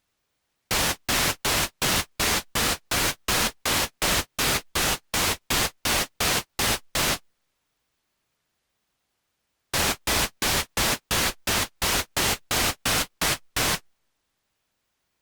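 Roland Juno-106 synthesizer in test mode sounding short bursts of white noise, evenly spaced about three a second, in two runs with a pause of a couple of seconds between them.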